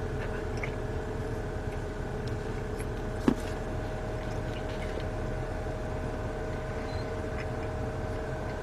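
Steady machine hum with a couple of constant tones running underneath, and one sharp click about three seconds in.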